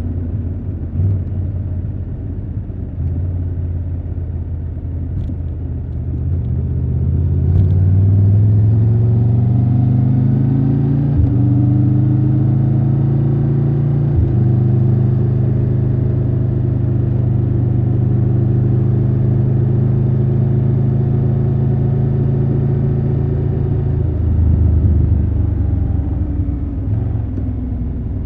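Triumph Tiger 1200 Rally Pro's inline three-cylinder engine. It runs low and uneven for several seconds, then pulls away with a rising pitch and two quick gear changes. It holds a steady cruise, then eases off to a lower rumble a few seconds before the end.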